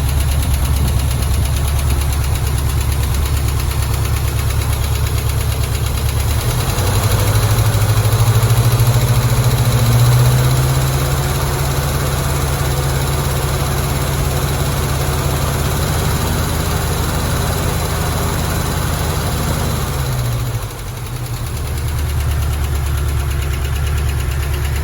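Small-block Chevy 350 V8 in a 1957 Chevrolet Bel Air running at idle. About six seconds in it is brought up to a higher, steady speed, and around twenty seconds in it drops back to idle.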